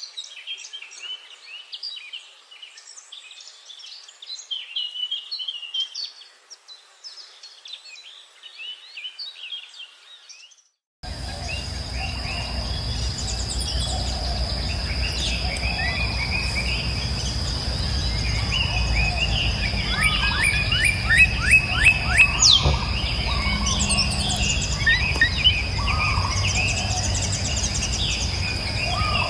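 Many small birds chirping and twittering. About eleven seconds in, the sound cuts to a louder scene where birds keep calling over a steady high-pitched whine and a low rumble.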